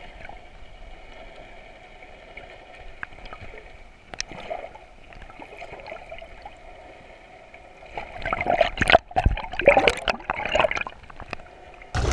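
Muffled water gurgling and sloshing, as heard through a camera held underwater, with a stretch of louder splashing and bubbling from about eight to eleven seconds in.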